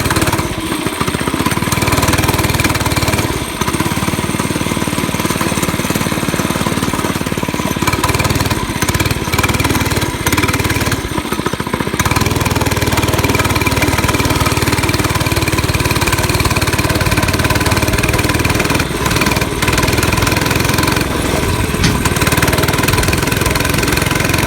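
Mini bike's small gas engine running steadily, with a few short dips in level, the longest about ten to twelve seconds in.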